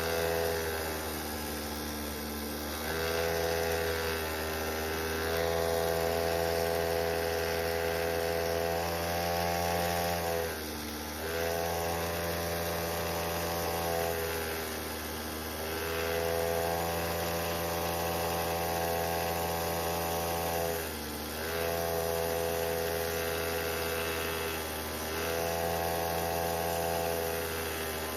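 A mini bike's motor running under way, its pitch dropping and rising again about half a dozen times as the throttle is eased off and opened up.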